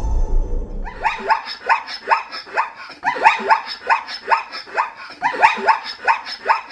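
An animal's rapid string of short, high-pitched calls, each sliding down in pitch, at about three to four a second in runs with brief pauses. They start about a second in.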